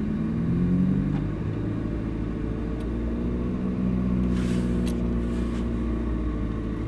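Ferrari 458 Italia's 4.5-litre V8 running at low revs, heard from inside the cabin as the car rolls slowly away. The engine note rises briefly under a second in, then holds fairly steady.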